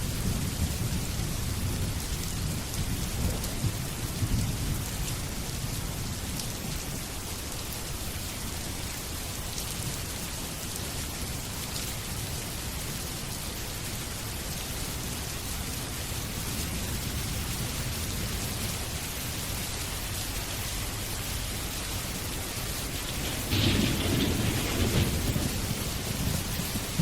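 Steady rain with thunder: a low rumble dies away over the first few seconds, and a louder roll of thunder breaks in suddenly near the end.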